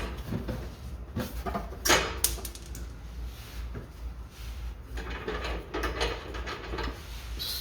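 Irregular knocks, clicks and scraping from working at the rubber exhaust hangers under the car by hand, without a hanger-removal tool. The louder knocks come about one to two seconds in, and smaller clicks and scrapes follow later.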